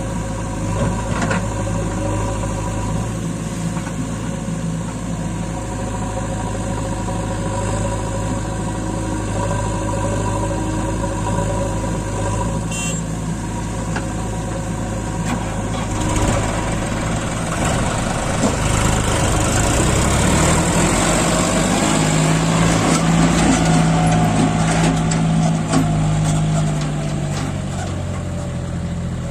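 Heavy diesel engine running steadily, then from about 17 seconds in working harder and louder, with its pitch shifting, before easing back near the end.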